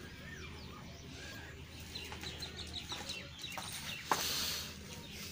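Faint bird calls, a quick run of short chirps about two seconds in, over a low steady background hum. A click followed by a short hiss about four seconds in.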